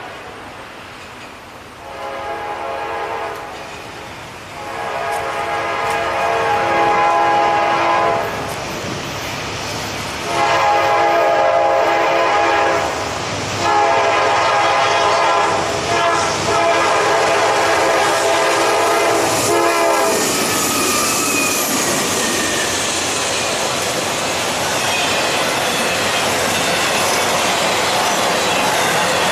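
Diesel locomotive's multi-chime air horn sounding four blasts, the last one held longest. The train then passes close by, its wheels clattering and squealing on the rails.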